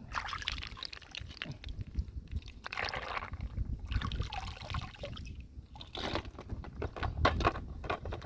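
Water sloshing and splashing in irregular surges, with scattered sharp knocks.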